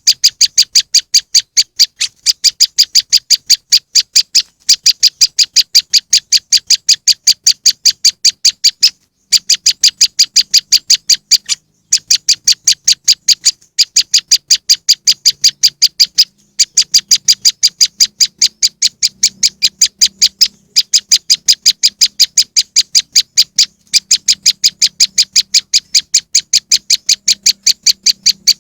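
Bird-lure recording of a prenjak lumut (moss wren) calling: a fast, even series of short high notes, about five a second, in runs of a few seconds separated by brief pauses.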